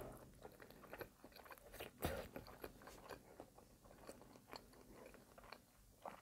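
Close-miked chewing of caramel cinnamon brioche French toast bake, faint wet mouth clicks, with one louder crunch about two seconds in.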